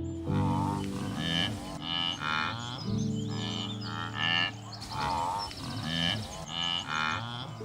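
Short animal calls repeated about every half second to a second, over background music with held low notes.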